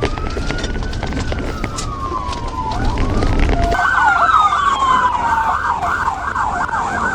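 Police sirens: a slow wail rising and falling, then about halfway in switching to a fast yelp of about three or four sweeps a second, with a second wail sliding down over it. A low vehicle rumble runs under the first half and stops when the yelp starts.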